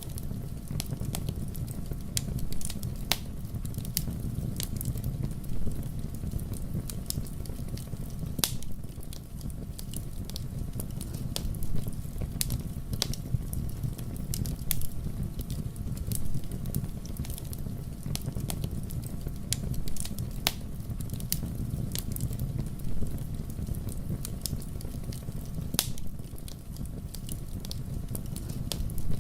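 Fire burning in a fireplace, crackling with irregular sharp pops and snaps over a steady low rumble of flames.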